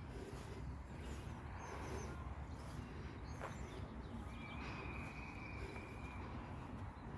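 Faint bird chirps over a steady low rumble, with one steady whistle-like tone held for about two seconds after the middle and a single sharp click a little before it.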